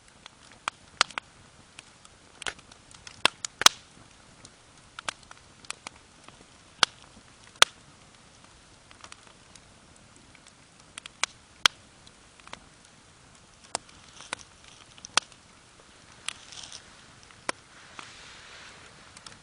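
Wood campfire crackling: sharp, irregular pops and snaps, with a faint rustle toward the end.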